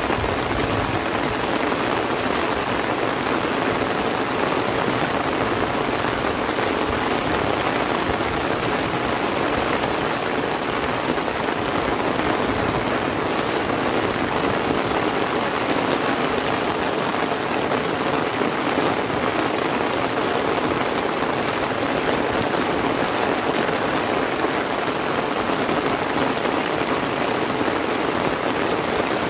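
Heavy rain falling steadily, drumming on an open umbrella held overhead, with no break or change.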